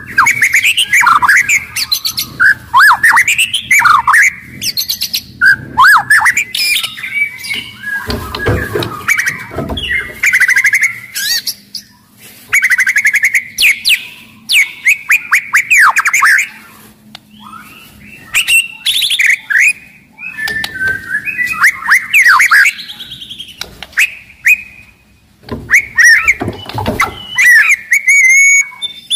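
White-rumped shama (murai batu) singing loudly in full song: a fast, varied string of whistled notes, sweeping slurs and rapid clicking trills in phrases separated by short pauses. This is the aggressive, non-stop 'gacor' song that keepers play to provoke other shamas into singing.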